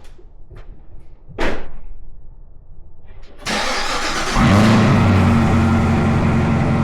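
Cadillac Blackwing cold start: after a few clicks and a thump, the starter cranks at about three and a half seconds, the engine catches a second later with a loud flare, and it settles into a steady fast cold idle.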